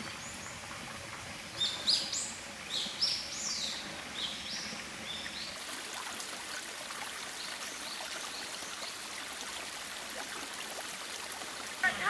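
A songbird sings a run of quick, high sweeping chirps for a few seconds near the start, over a steady outdoor background hiss.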